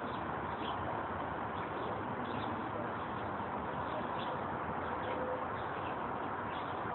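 Steady background hiss with faint, short bird chirps every second or so.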